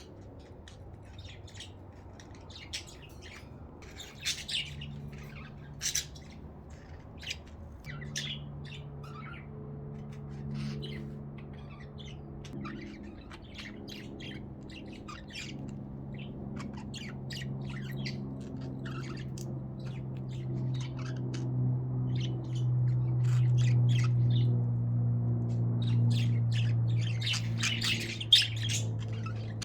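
Pet budgerigars chirping and squawking in short, scattered calls. Under them a low steady hum starts a few seconds in and grows louder through the second half.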